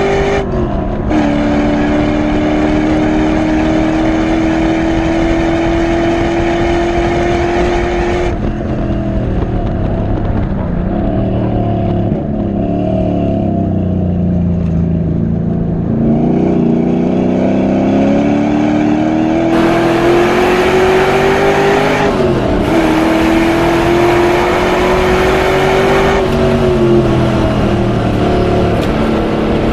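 LS1 V8 in a BMW E30 race car under hard acceleration and braking. The revs climb, drop sharply at an upshift about a second in and climb again. From about a third of the way in they sink for several seconds on lift-off, then rise again, with another quick upshift drop around two-thirds through and a fall near the end.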